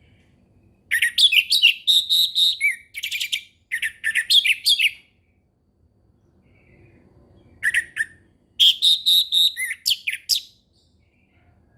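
Orange-headed thrush singing its full, open 'ngeplong' song in two bouts of rapid, varied whistled phrases. The first starts about a second in and lasts about four seconds with short breaks; the second comes near the end and lasts about three seconds.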